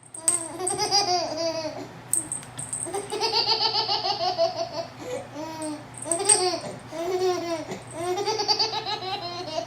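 A baby laughing hard in repeated high-pitched bouts of quick giggles, with short breaks between them.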